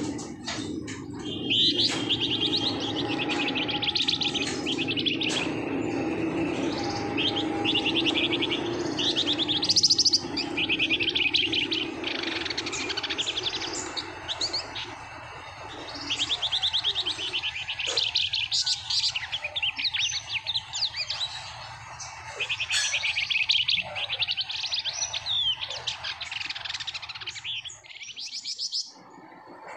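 A songbird known in Indonesia as the flamboyan, singing fast rattling trills ('ngebren'), short phrases one after another with only brief gaps. The bird is 'gacor', singing hard and without letup.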